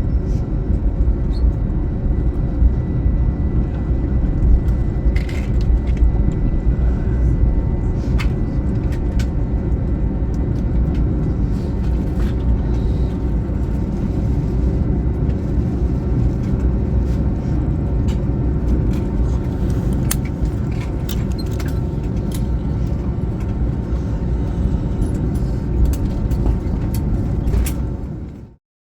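Steady low rumble of an Airbus A321neo's cabin after landing, with a faint steady whine and occasional light clicks. It cuts off suddenly near the end.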